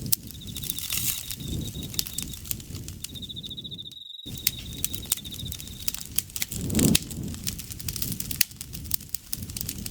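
Campfire crackling and popping over a low rush of flame, with a steady high insect trill that stops about six seconds in. The sound cuts out completely for a moment around four seconds in, and there is a louder low surge of fire near seven seconds.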